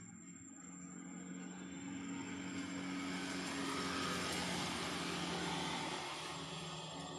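A passing engine: a steady hum with broad noise that swells gradually, is loudest around the middle, and eases off near the end.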